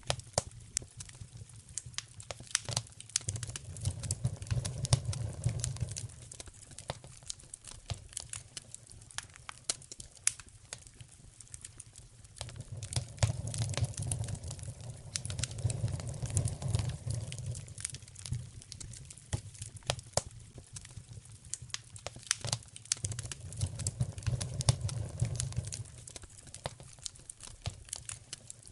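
Wood fire crackling, with sharp pops and snaps coming irregularly throughout. A low rumbling swell rises and fades three times underneath, about three seconds in, in the middle and near the end.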